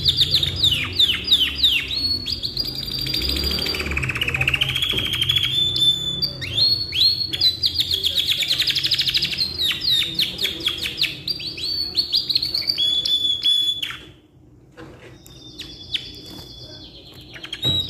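Canary singing a long, unbroken song of rapid trills and rolling runs of repeated notes. It breaks off briefly about fourteen seconds in, then resumes more softly.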